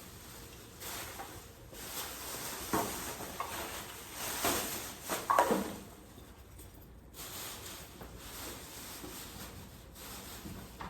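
Rustling and scraping of things being handled, with a few sharp knocks; the loudest cluster comes about four to five seconds in, then it goes quieter.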